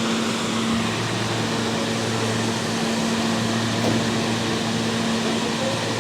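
NYC Subway R160 train standing in the station, giving a steady mechanical hum with two constant low tones and a hiss over it, with no sign of the motors winding up or down.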